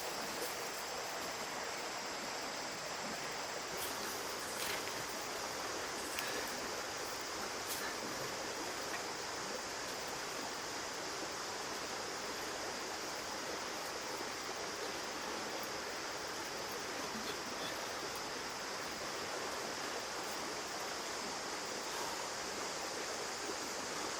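Creek water running steadily, an even rushing sound, with a steady high-pitched hiss above it and a few faint ticks.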